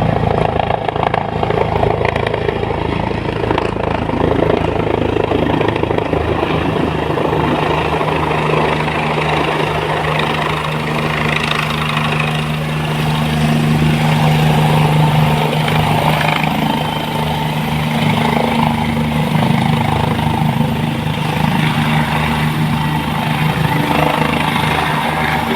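Helicopter ambulance coming in to land, its rotor and engine running loud and steady with a constant low hum.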